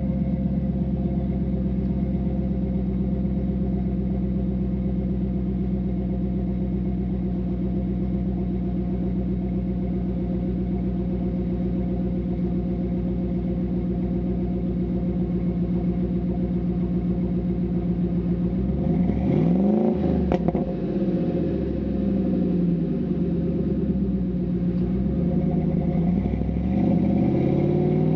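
Ford F-150 pickup exhaust, fitted with a two-chamber Flowmaster muffler and 4-inch piping, idling steadily. About nineteen seconds in the engine is revved: one sharp rise and fall in pitch, then several smaller revs near the end.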